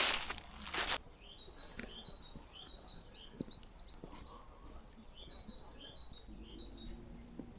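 Two crunching footsteps on the forest floor in the first second, then the steps stop. A small songbird gives a rapid series of short, thin, high chirps for several seconds.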